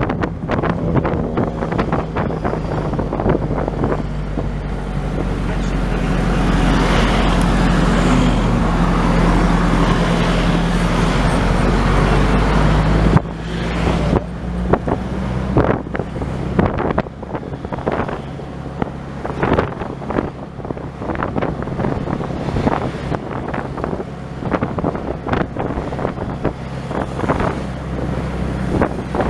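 Motor vehicle driving on a road: a steady engine hum with wind buffeting the microphone. About halfway through the hum drops off abruptly, and the sound turns quieter and choppier.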